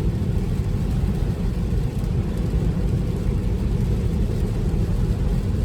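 Steady tyre and road noise inside a Tesla's cabin at highway speed on a wet road, a constant low rumble with no engine note.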